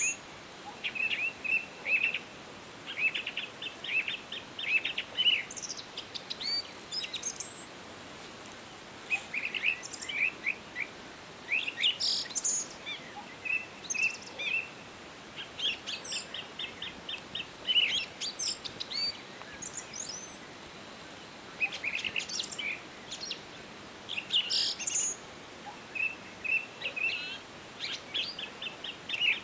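Songbirds singing in a forest: short phrases of quick, high chirps and trills, repeated every few seconds with brief pauses, over a faint steady hiss.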